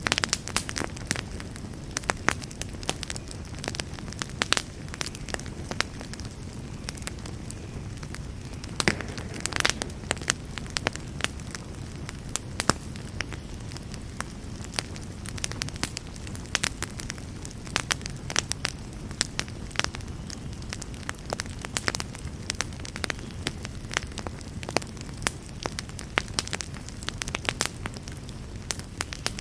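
Wood campfire burning, a steady low rush of flame with frequent sharp, irregular crackles and pops.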